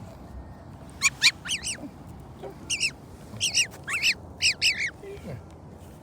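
A bird giving a run of short, sharp calls, mostly in quick pairs, from about a second in until near the end.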